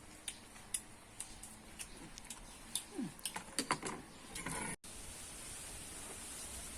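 Eating sounds: scattered small clicks and taps of utensils and chewing, with a brief falling squeak about three seconds in. About five seconds in there is an abrupt cut to a steady faint hiss.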